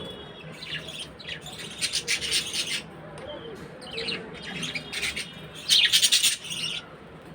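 A pair of budgerigars chirping and chattering in short, irregular bursts, loudest about six seconds in.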